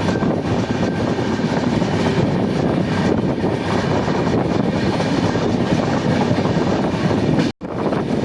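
Train running along the track, a steady continuous rumble, with a sudden split-second break near the end.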